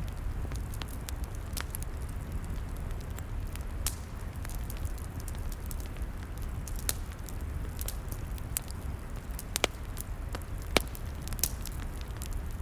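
Log fire crackling: irregular sharp pops and snaps, a few of them louder, over a steady low rumble.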